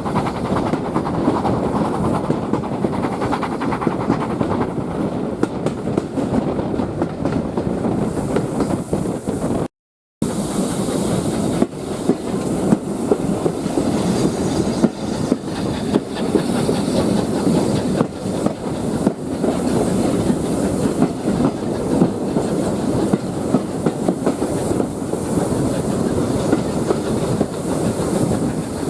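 Train running along the rails: a steady rumble with frequent clicks of wheels over rail joints, broken by a short silent gap about ten seconds in.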